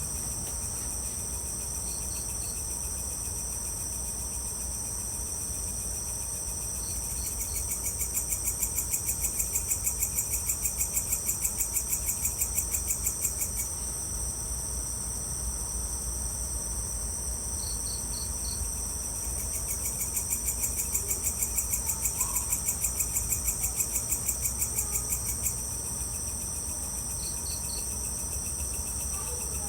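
Evening insect chorus of crickets: a steady high buzz throughout, joined twice by a louder pulsing trill that lasts about six seconds each time, with brief three-note chirps now and then and a low steady rumble underneath.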